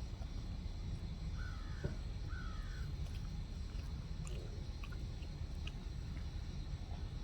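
Two short, harsh bird calls, like caws, about a second apart, over a steady low rumble and a few faint clicks.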